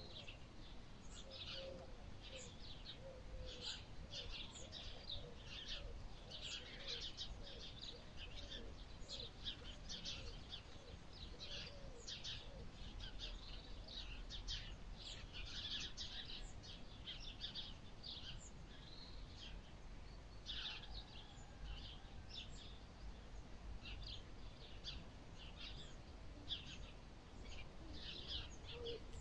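Small birds chirping and twittering over and over, with a series of lower repeated calls from another bird in roughly the first eight seconds. A faint low rumble sits underneath.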